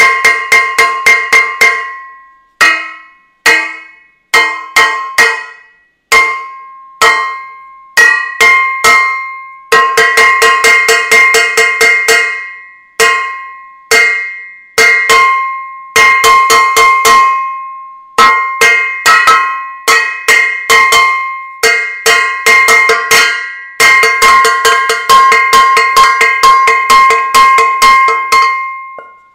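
A metal saucepan being beaten, each strike giving a bright ringing clang. Quick runs of strikes come at the start, then single hits with gaps of a second or so, then fast, dense banging again from about a third of the way in.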